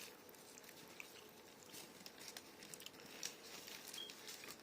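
Quiet eating sounds: soft chewing with scattered small clicks and crinkles.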